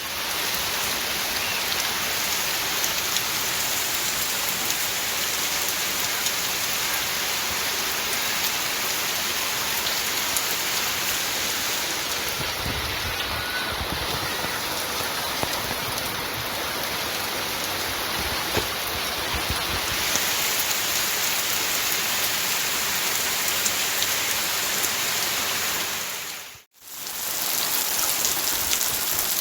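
Fairly heavy rain falling steadily, a dense even hiss of drops on surfaces. A low rumble joins in midway for several seconds, and the sound cuts out for an instant near the end before the rain resumes.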